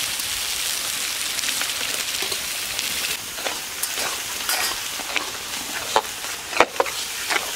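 Spinach purée sizzling as it goes into hot masala paste in a metal wok and is stirred. From about three seconds in, a metal spatula scrapes and knocks against the pan, loudest near the end.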